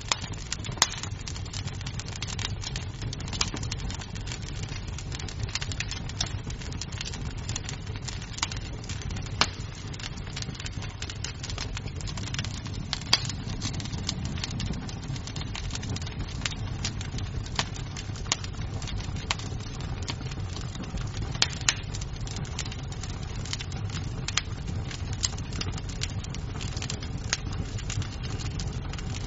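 Wood fire crackling in a fireplace: a steady low rumble of flames under frequent irregular pops and snaps of burning wood, with a few sharper, louder pops scattered through.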